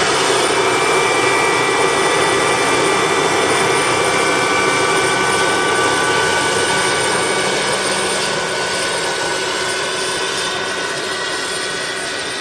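Large radio-controlled Mi-24 scale model helicopter running: steady engine and rotor noise with a high whine over it, easing off slightly over the last few seconds.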